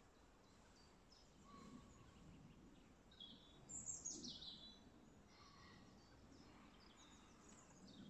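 Near silence outdoors with faint birdsong: a few short high chirps, the loudest a quick downward-sliding call about four seconds in.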